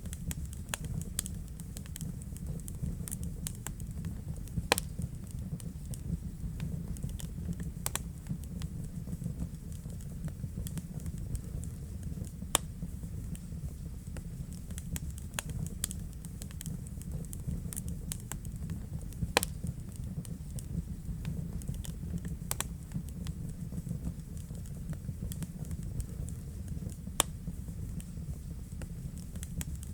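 Wood fire burning in a fireplace: a steady low rumble of the flames with irregular crackles and a few sharper pops.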